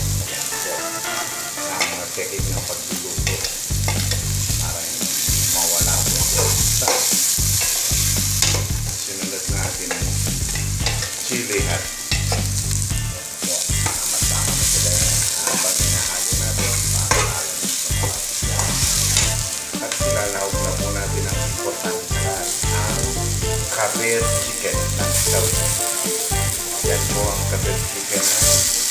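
Chopped onion, ginger and green chili sizzling in oil in an aluminium pot, with a metal ladle scraping and clinking against the pot as they are stirred. Near the end, pieces of raw chicken go into the hot pot.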